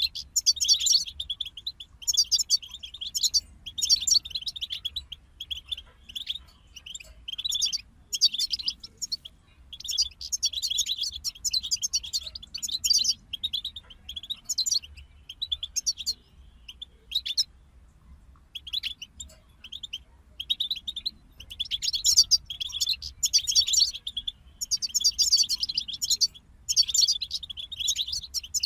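European goldfinch song: long runs of fast, twittering trills and chirps, with a short break about seventeen seconds in.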